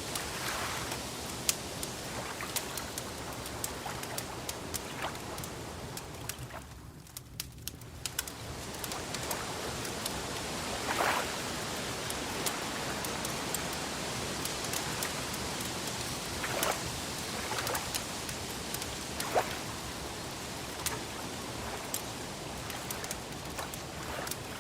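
Wood fire crackling: sharp pops and snaps scattered over a steady hiss, which thins briefly about seven seconds in. A few short, soft bird calls come through now and then.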